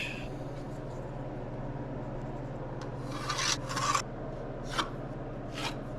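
A few short hand-tool scraping strokes about halfway through, followed by two light taps, over a steady low hum.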